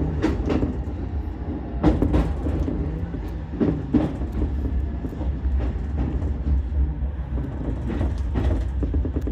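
Ichibata Electric Railway 7000 series electric railcar running, heard from inside the car: a steady low rumble with the wheels clicking over rail joints, mostly in quick pairs a couple of seconds apart.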